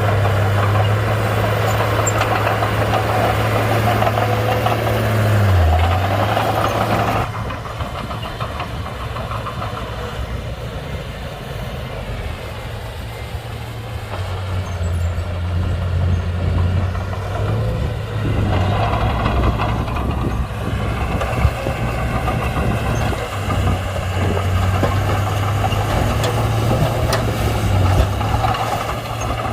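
Komatsu D31P bulldozer's diesel engine running as the machine works, with a steady low drone. Its pitch dips briefly about six seconds in, the sound drops suddenly a little after seven seconds, then swells again from about halfway through.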